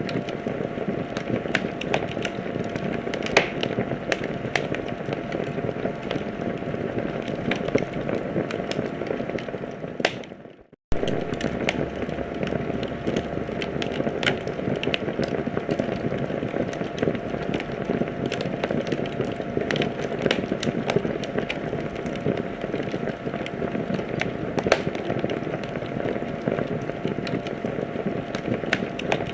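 Wood fire in a fireplace crackling, with frequent sharp pops over a steady hiss of burning. About ten seconds in the sound fades out to silence and cuts straight back in a moment later, like a loop restarting.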